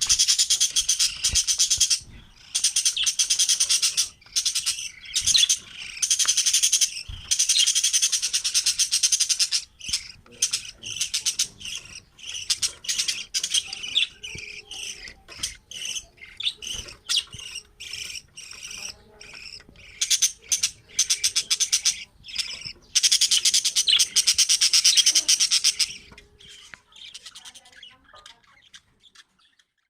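Cage birds, budgerigars and finches, chattering and chirping rapidly in long stretches with short breaks, the chatter dying away near the end.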